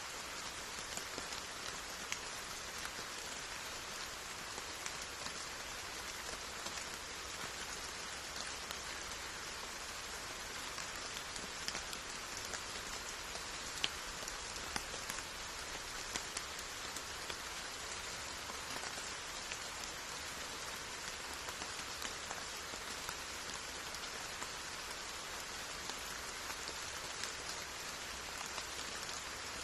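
Steady rainfall with scattered sharper drips of individual drops landing close by.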